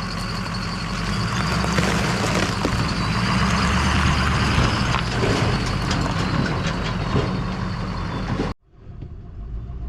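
Ford F-550 dump truck on the road: steady engine and road noise. It cuts off abruptly about eight and a half seconds in, and a much quieter engine sound follows.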